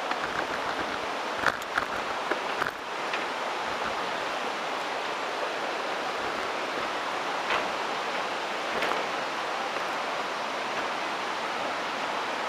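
Steady rushing noise from riding a mountain bike: wind and tyre noise picked up by the handlebar-mounted camera, with a few sharp clicks and rattles from the bike, mostly in the first three seconds.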